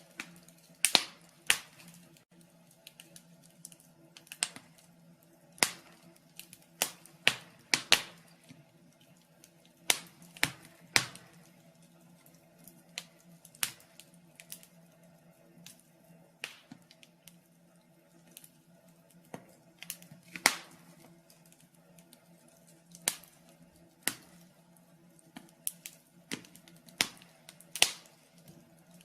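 Wood fire crackling in a fireplace: irregular sharp snaps and pops, clustered in places and sparse in others, over a faint steady hum.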